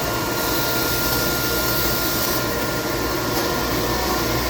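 Royal Master Gen 5 CNC centerless grinder running under power: a steady machine hum with a faint constant whine. A louder high hiss comes in about half a second in and drops back about halfway through.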